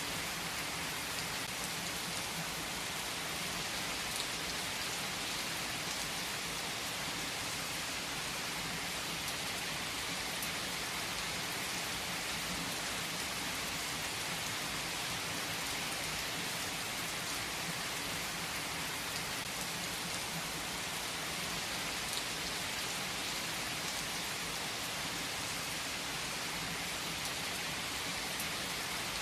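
Steady rain falling, an even hiss with a few distinct drops ticking here and there.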